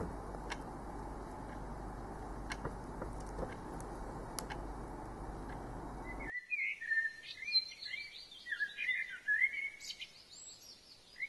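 Steady low hiss with a few faint clicks, cut off suddenly about six seconds in by a small bird chirping and twittering in quick phrases, which pause about ten seconds in and start again near the end.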